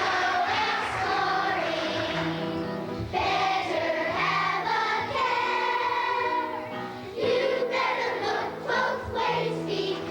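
Children's choir singing a song with instrumental accompaniment under it.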